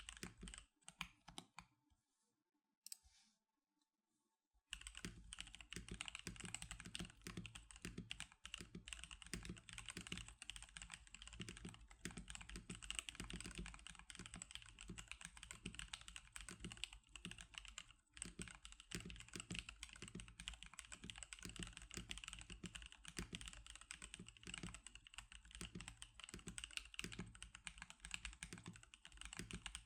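Typing on an NK87 custom mechanical keyboard fitted with Magic Girl keycaps. A few keystrokes, then about two seconds of near quiet, then steady fast typing from about five seconds in.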